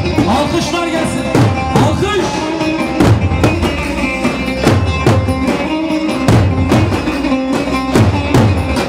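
Lively Turkish wedding dance music from a band: a drum beat with a deep falling bass note on each strong beat, under a held, ornamented melody.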